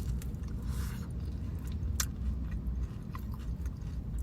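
Person biting and chewing a mouthful of McDonald's pie close to the microphone, with a few small crunchy clicks.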